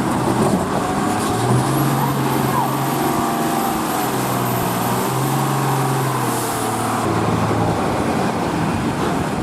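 Heavy truck engine running with a steady low drone, joined by a thin high whistle from about a second and a half in to about six seconds, over road noise.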